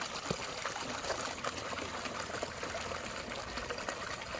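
Water trickling steadily in a shallow stream, with a few small clicks.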